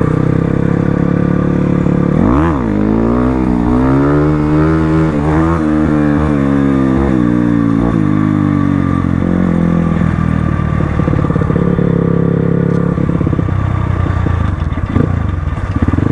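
Crossfire RM250 dirt bike engine running while riding: about two seconds in the revs drop and climb again quickly, then the pitch wavers up and down with the throttle for several seconds before settling into a steadier, rougher running note.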